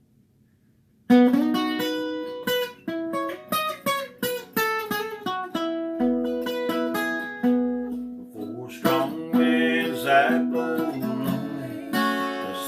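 A folk song opens with a fingerpicked acoustic guitar intro after about a second of silence. Low bass notes come in about six seconds in, and a voice begins singing about nine seconds in.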